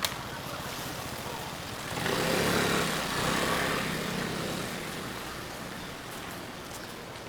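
Steady rain falling, with a motor vehicle passing on the wet street: its engine hum and tyre hiss swell about two seconds in and fade away over the next few seconds. A brief sharp click right at the start.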